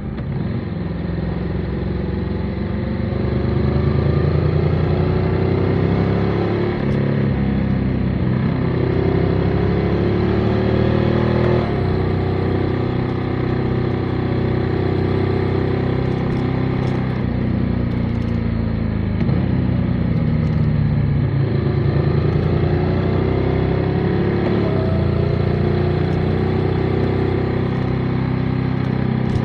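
Motorcycle engine running on the road. The revs climb and drop back again several times, with a steady rush of air noise underneath.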